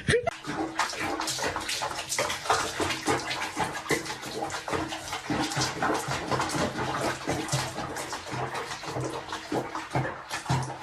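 Water splashing in quick, irregular splashes.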